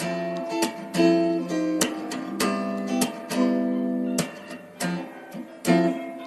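Background music of acoustic guitar, notes plucked and strummed in a steady rhythm.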